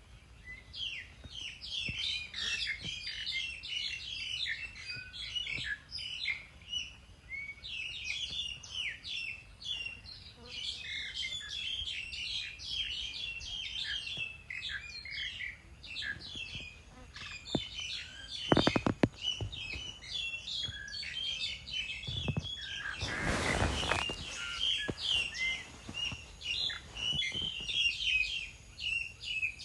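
A flock of small birds chirping continuously with many overlapping short high calls. A few sharp clicks come about two-thirds of the way through, followed shortly after by a brief rustling burst of noise.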